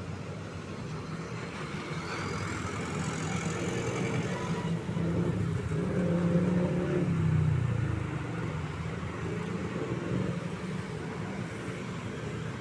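A truck engine passing by: it grows louder to a peak a little past halfway, then fades, with a faint high whine above it in the first few seconds.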